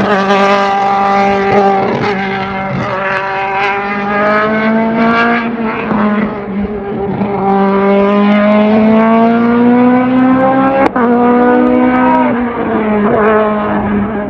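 Hillclimb competition car's engine at full throttle, pitch climbing through the revs and dropping sharply at two upshifts, with a sharp crack at the second shift. Near the end the revs fall briefly and then climb again.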